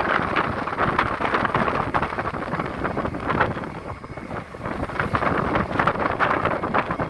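Storm wind gusting across the microphone: a rough, uneven rush of noise that eases briefly about four seconds in.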